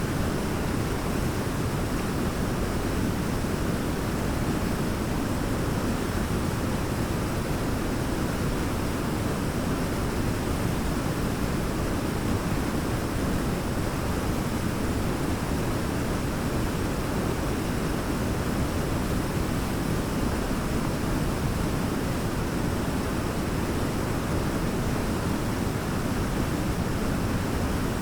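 Large waterfall: a steady, unbroken roar of cascading water, heaviest in the low range, with no single splashes standing out.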